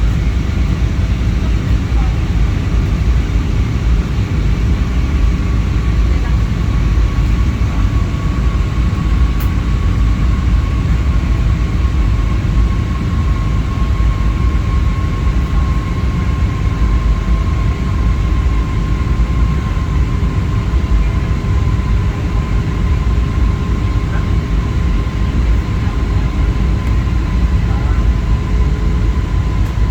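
Airliner's engines and airflow, a steady deep rumble with a faint high whine that slowly falls in pitch.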